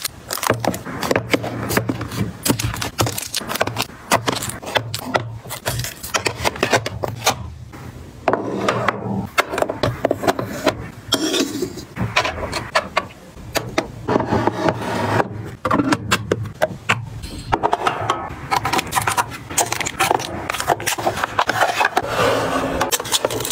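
Small objects being handled and set down by hand: repeated clicks and taps with scraping and rubbing between them, over a steady low hum.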